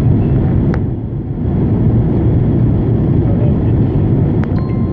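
Boeing 767 cabin noise: a steady, loud low rumble of engines and airflow heard from inside the cabin during the landing. A short click about three-quarters of a second in, and near the end a click followed by a brief steady tone.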